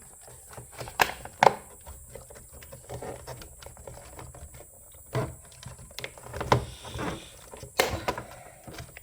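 Irregular clicks and knocks of a cover being pushed on and clipped into place over the repaired micro switch assembly of a Breville Barista Express espresso machine, with a few sharper snaps among lighter handling taps.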